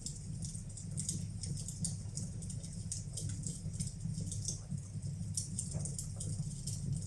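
Wood fire burning in a fireplace, with many small irregular crackles and pops over a steady low rumble.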